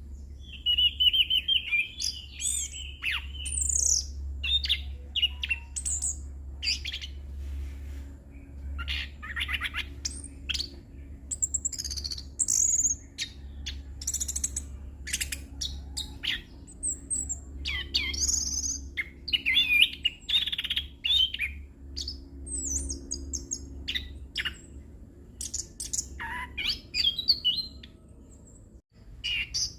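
Orange-headed thrush singing a long, varied song of quick whistled phrases broken by short gaps, full of mimicked notes. It pauses briefly near the end and then goes on singing.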